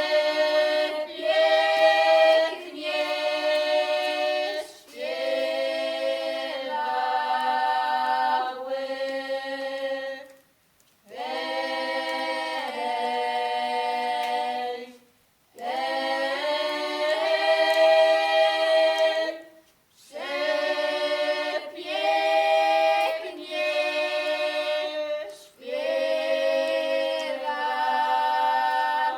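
An a cappella choir singing in several-part harmony on long held notes, in phrases of a few seconds separated by brief pauses for breath.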